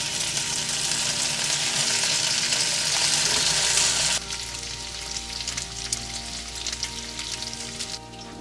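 Food sizzling in a hot frying pan, starting suddenly. It is loudest for about the first four seconds, then drops abruptly to a quieter sizzle.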